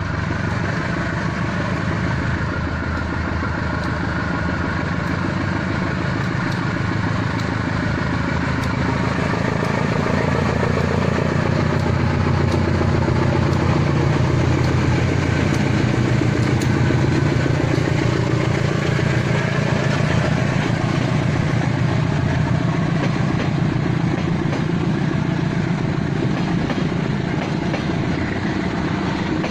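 Passenger train running by with a loud, steady rumble of engine and wheels on the rails. The pitch and level drift slightly in the middle.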